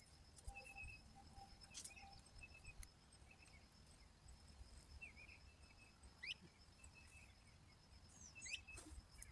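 Faint birdsong: scattered short chirps and a few quick rising whistles, over a low background rumble.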